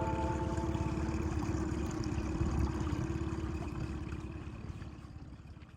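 A boat engine running steadily with a low, fast pulsing rumble, fading out gradually toward the end.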